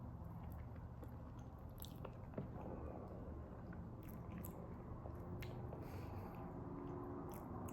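Close-up eating sounds: chewing and biting goat meat and fufu, with small wet smacking clicks here and there over a low steady hum.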